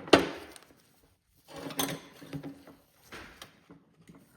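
Handling noise: three short clattering knocks and rustles, the first the sharpest and loudest, the others following about a second and a half apart.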